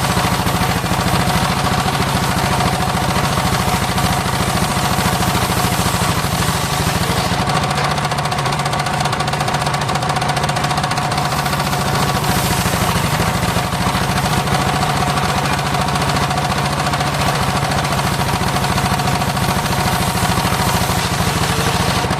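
Engine of a homemade circular saw rig running steadily, a fast even low beat with a steady whine above it.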